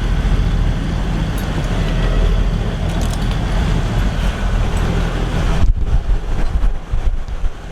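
Wind buffeting the microphone over the rush of the sea: a steady low rumbling noise that turns gusty and uneven near the end.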